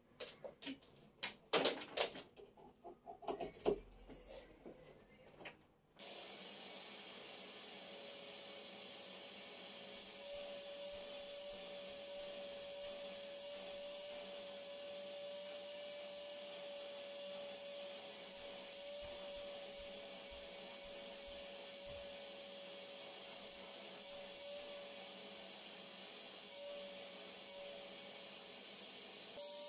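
A few knocks and clicks, then a vacuum cleaner switches on about six seconds in and runs steadily with a constant whine.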